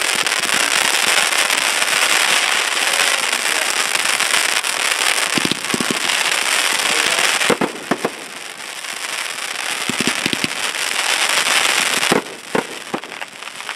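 Aerial fireworks bursting: a dense, loud crackle with sharp bangs among it. The crackle falls away about seven and a half seconds in, builds again, and drops off about twelve seconds in, leaving a few separate bangs.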